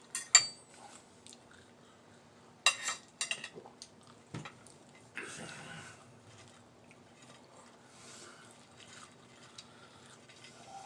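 Chewing and crunching of deep-fried food, with a few sharp crisp bites near the start and another cluster about three seconds in, then softer chewing.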